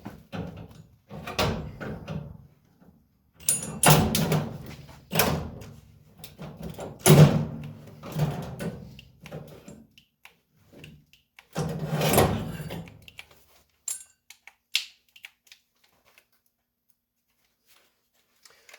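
A run of irregular heavy thuds and clunks from hand work on a car's sheet-metal body shell, each knock ringing briefly.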